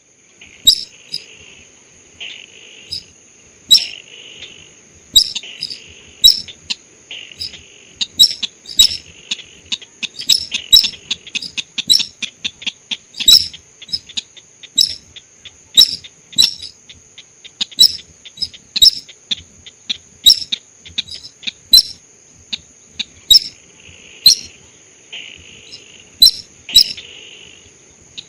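Bird-lure recording of sintar sawah calls: sharp, clicking chip notes repeated about once or twice a second, with quick runs of notes and raspy hissing phrases in between, over a steady high-pitched whine.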